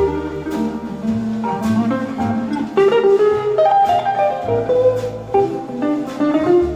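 Small jazz group playing: an electric jazz guitar plays a line of single notes over double bass and brushed or ridden cymbals on a drum kit.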